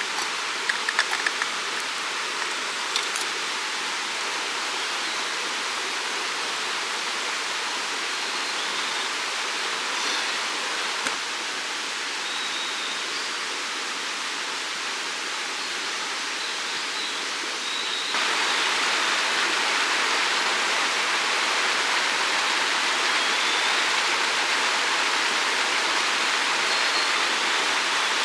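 Steady rushing noise, like running water or wind through trees, that becomes abruptly louder about two-thirds of the way through. A few faint high chirps and small clicks come over it.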